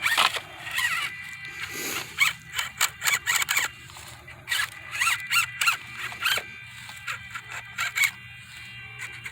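Small electric RC crawler's motor and gears whining, the pitch rising and falling as the throttle is worked, with irregular clicks and scrapes as the tires and chassis climb over rock.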